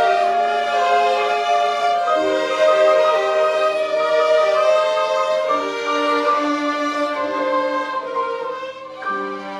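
A violin ensemble playing a slow melody in several parts: long bowed notes that change every second or two.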